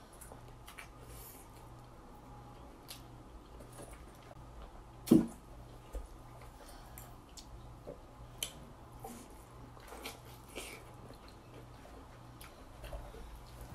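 Close-up eating sounds: soft chewing with scattered small wet clicks and smacks while sauce-covered seafood boil food (potato and corn) is bitten and handled, and one sharper click about five seconds in.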